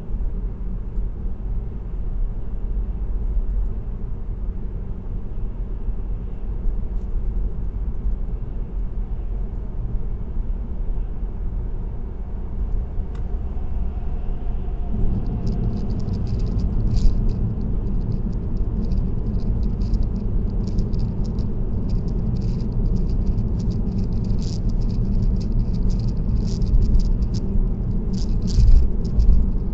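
Steady low road and tyre rumble inside a car cruising on an expressway. About halfway through, the rumble grows louder and a fast, irregular rattle of small clicks sets in and keeps going.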